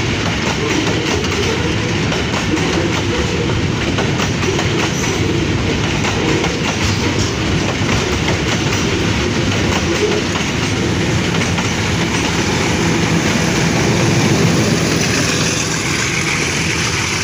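Long freight train of covered wagons rolling past close by: a steady rumble with the clickety-clack of wheels over rail joints. Near the end it grows louder as a diesel locomotive goes by.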